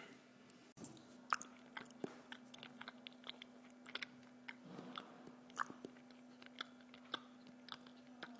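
A person chewing food close to the microphone: irregular small clicks and crunches, one or two a second, over a faint steady electrical hum.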